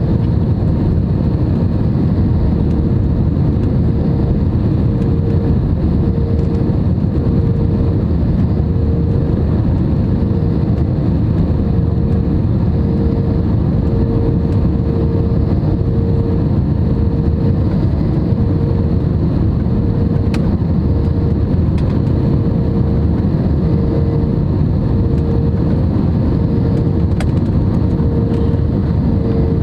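Airbus A320neo in flight on approach: a steady, loud rush of engine and airflow noise, with an engine hum that pulses about once a second and dips slightly in pitch near the end.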